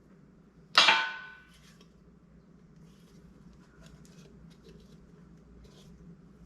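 A single loud metal clang that rings on for about a second, followed by a few faint clinks of metal parts being handled during an engine teardown.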